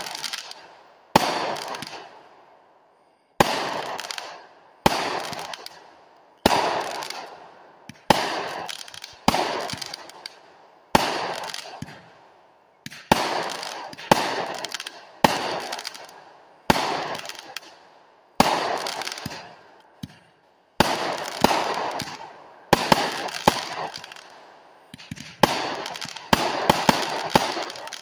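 Multi-shot consumer firework cake firing aerial shots, a sharp bang about every one to two seconds, each followed by a fading spray of smaller pops. The shots come faster and overlap near the end, then stop.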